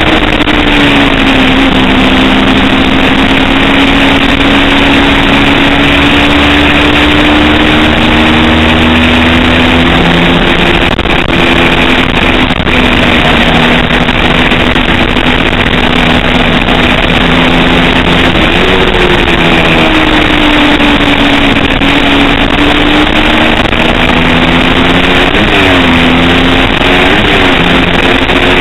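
250cc road-racing motorcycle engine running hard at a high, steady pitch over a constant rushing noise. The pitch dips and climbs back once about two-thirds of the way in, then twice in quick succession near the end.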